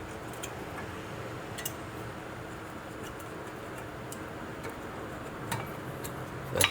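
A few light, scattered metal clicks from brake pads and their spring clips being handled and fitted at the caliper, with one sharper click near the end.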